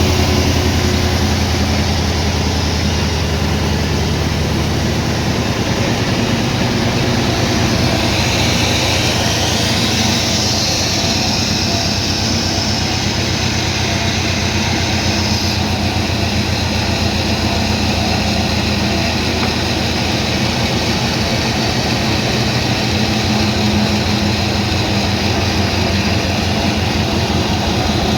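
Sawmill machinery running steadily with a low engine hum and a fast regular pulse; a higher whine comes in about eight seconds in and stops about fifteen seconds in.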